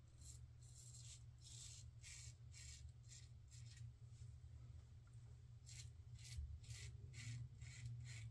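Razor scraping across lathered stubble on a pass against the grain: faint, quick short strokes, about two or three a second, in two runs with a pause near the middle.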